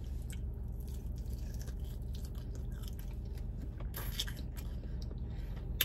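A person chewing a garlic parmesan chicken wing close to the microphone: small irregular mouth clicks throughout, a few sharper ones about four seconds in, over a low steady hum.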